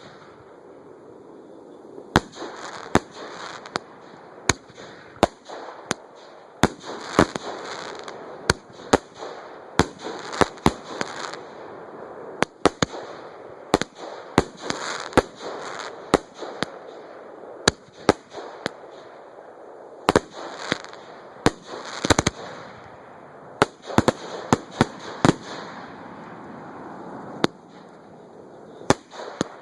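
A fireworks display heard at close range from the launch site: shells launching and bursting in sharp bangs, often several in quick succession at irregular intervals, over a continuous crackling and sizzling of burning effects.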